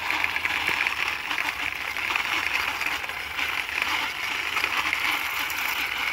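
Plastic toy car's wheels rolling across a hard surface as it is pushed along by hand, a steady rattling whir of many fine ticks.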